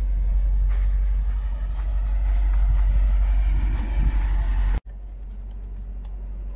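Car engine running with a steady deep rumble, which cuts off suddenly about five seconds in and gives way to a quieter steady hum inside the car's cabin.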